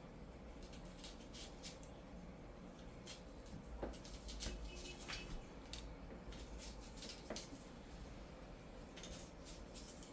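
Faint scattered clicks and rustles of hands handling seasonings and raw meat, with a low steady room hum underneath.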